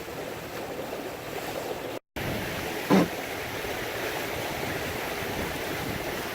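Water rushing along a racing sailboat's hull under way downwind, a steady rush mixed with wind on the microphone. The audio drops out briefly about two seconds in, and a short loud knock or voice sound comes about three seconds in.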